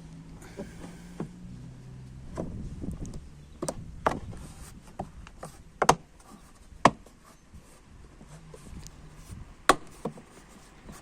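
Irregular clicks and knocks of hands working on a car, handling tools and hard parts, with a few sharper taps about 6, 7 and 10 seconds in.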